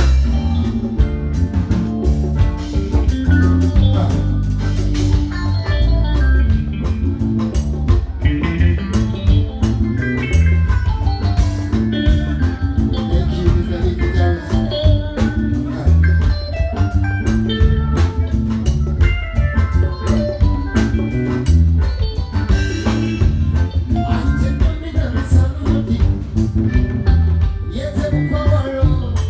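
A band playing: heavy bass, drum kit and guitar, with some singing.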